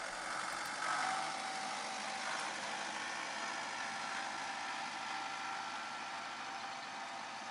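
An engine running steadily: a faint, even hum over a hiss.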